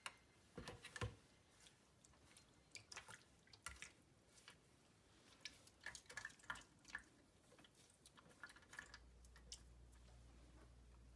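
Faint scattered drips and small wet handling ticks from a doll's hair soaked in water and fabric softener. A faint low hum comes in near the end.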